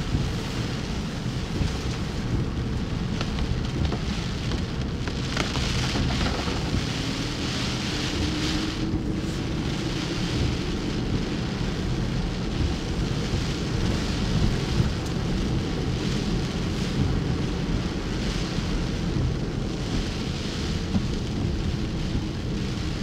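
Tropical-storm wind and rain: a steady rushing noise, with gusts buffeting the microphone as a deep, constant rumble.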